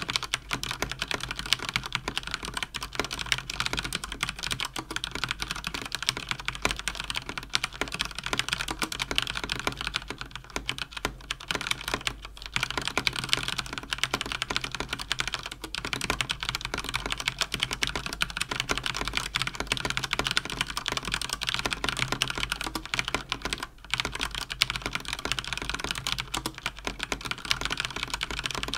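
Fast typing on a Cougar Attack X3 RGB mechanical keyboard with Cherry MX Speed linear switches: a rapid, continuous clatter of keystrokes, broken by two brief pauses.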